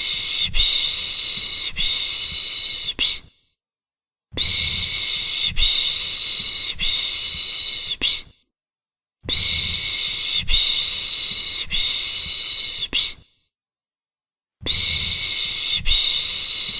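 Long hissing 'shhh' (pış pış) shushing sounds for soothing a baby, each held about four seconds with a few brief dips inside it, then about a second of silence, repeating in an even loop about four times.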